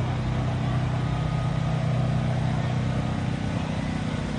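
An engine running steadily with a low hum, which eases off about three seconds in.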